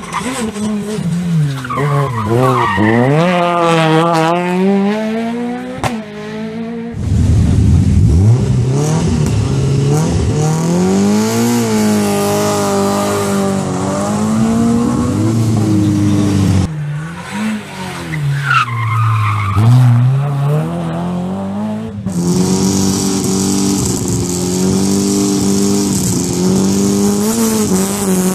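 Rally cars at full attack on a stage. Their engines rev up and drop again and again through gear changes and corners, with tyre squeal and skidding. The sound cuts abruptly several times from one car to the next.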